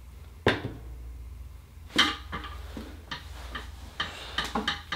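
Oyster shells and a small metal tool clicking and knocking as Akoya pearl oysters are handled and opened: a sharp click about half a second in, another at about two seconds, then a quick run of lighter clicks, over a low steady hum.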